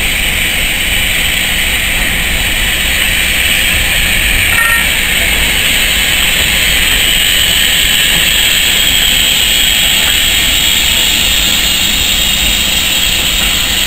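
Steam-hauled train passing close by: the locomotive going by tender-first, then its coaches rolling past, a steady rumble and hiss.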